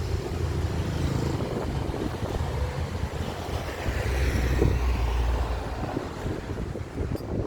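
Airbus A319 jet airliner passing overhead on its landing approach, a steady low engine rumble that swells to its loudest about halfway through as the aircraft goes by.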